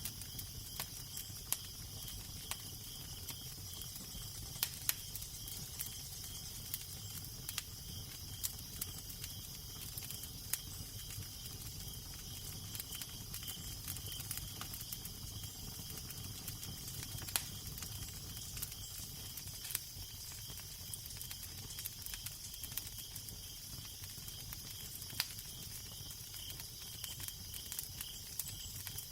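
Wood fire crackling, with irregular sharp pops over a steady hiss, and a low wind rumble underneath.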